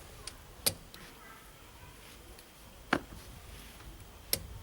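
Three sharp clicks about two seconds apart from a click-type torque wrench. Each click signals that a starter motor mounting bolt has reached its set torque of 65 Nm.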